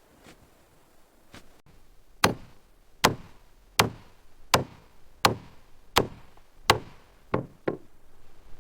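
A hand tool striking hard and steadily: seven even blows about three-quarters of a second apart, then two lighter, quicker ones near the end.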